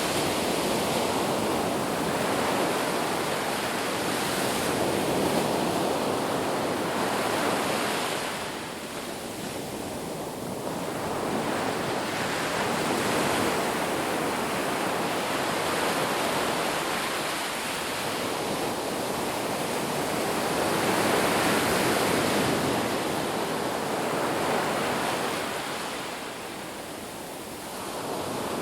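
Sea waves breaking and washing in a continuous hiss that swells and eases, with quieter lulls about a third of the way in and near the end.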